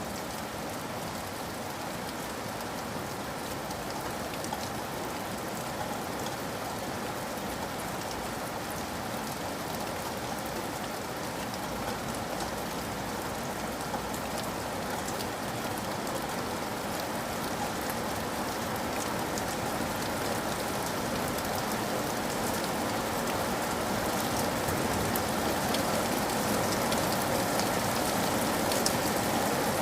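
Steady rain falling on a surface, a dense even patter with fine drop ticks, slowly growing louder.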